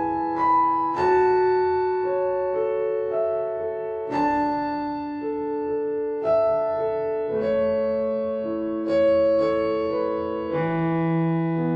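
Background piano music: slow, gentle chords and single notes struck every second or two and left to ring.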